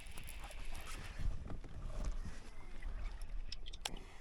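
Water sloshing around a fishing kayak, with a low rumble of wind on the microphone and a few sharp clicks near the end.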